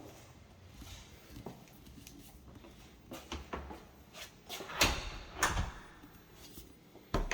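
A door being handled: a series of knocks and clatters, the two loudest near the middle and a sharp knock near the end.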